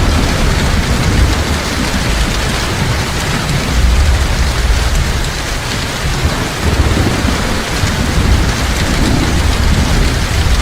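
Heavy rain falling steadily, with a low rolling rumble of thunder underneath that swells and fades.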